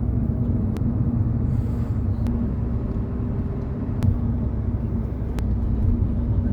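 Steady low rumble of a moving car heard from inside the cabin, with a faint steady hum and a few light ticks.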